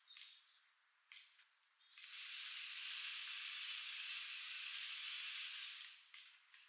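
A steady hiss of noise lasting about four seconds in the middle, with a few faint short ticks and chirps from small birds at a feeder before and after it.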